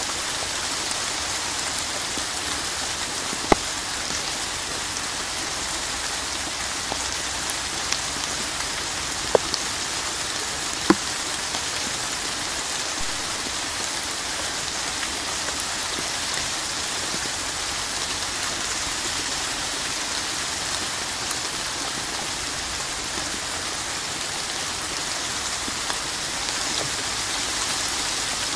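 Rain falling steadily, an even hiss of many drops, with a few louder single drop hits standing out, three of them in the first dozen seconds.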